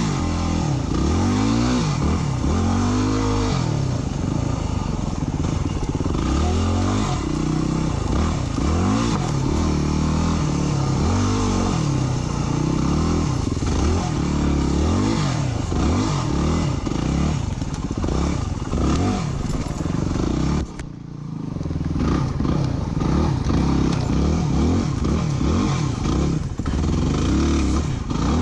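Dirt bike engine revving up and down again and again as the rider accelerates and slows through turns. About two-thirds of the way through, the engine sound drops away for about a second, then picks up again.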